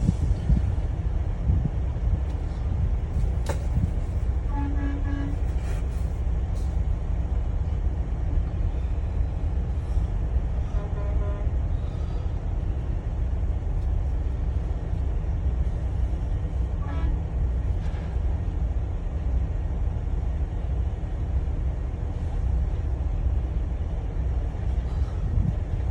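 Steady low rumble of an idling dump truck's diesel engine, with short toots of a vehicle horn about five, eleven and seventeen seconds in.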